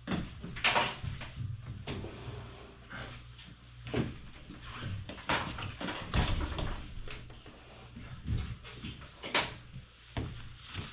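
Irregular knocks, clunks and scuffs as a heavy front-load washing machine is handled and shifted into place on its newly fitted feet.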